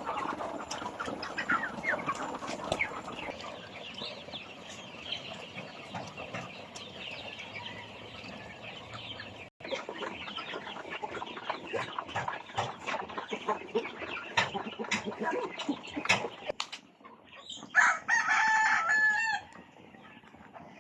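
A flock of heritage chickens clucking and chattering. Near the end a rooster crows once, loudly, for about a second and a half.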